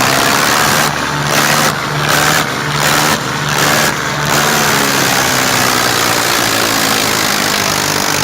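Tractor engine running loudly with a steady low drone, its sound dipping briefly five times in a regular rhythm between about one and four seconds in.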